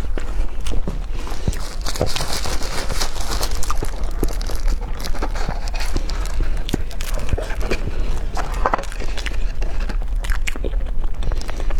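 Close-miked eating: chewing and biting food, with a steady stream of small wet clicks and crunches, over a constant low hum.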